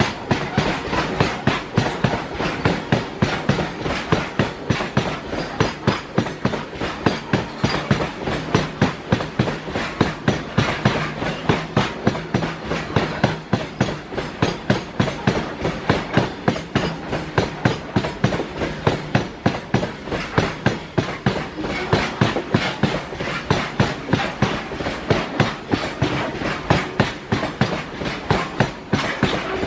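Freight wagons rolling past, their wheels clattering over rail joints in a steady rhythm of about three clacks a second, with a steady low hum underneath.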